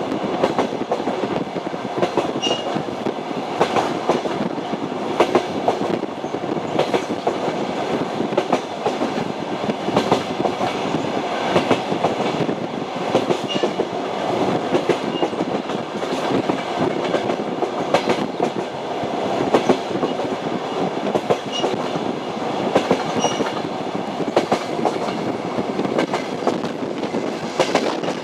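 Train wheels running over the rails: a steady running noise with frequent, irregular sharp clacks of the wheels over rail joints.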